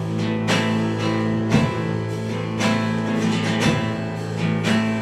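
Instrumental music: strummed guitar chords about once a second over held notes.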